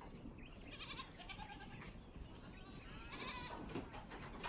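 Goats bleating: one call near the start and another in the last second and a half.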